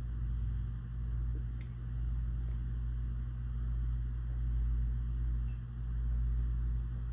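Steady low mechanical hum, with a faint tick about one and a half seconds in.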